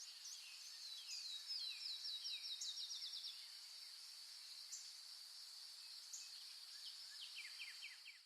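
Faint birdsong: a small bird sings rapid runs of falling notes, one long run about a second in and a shorter one near the end, over a steady, high thin tone.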